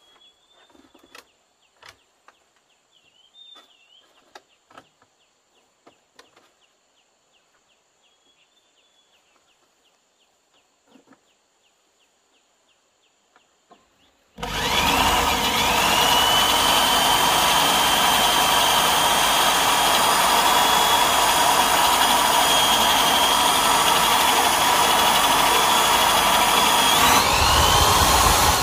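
Faint scattered knocks over a steady insect drone and a few bird chirps, then, about halfway through, a handheld electric power tool starts with its motor whine rising to speed. It runs steadily and loudly, drops off briefly near the end and is started again.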